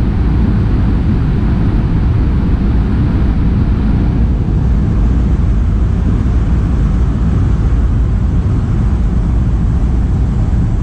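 Chiller machinery running with a steady, loud low rumble that does not change.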